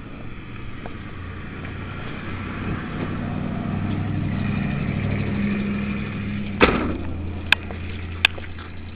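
1978 Chrysler Cordoba's V8 being cranked on a hard start and not catching. A low steady drone builds through the middle, then stops with a sharp click about two-thirds in, followed by two lighter clicks.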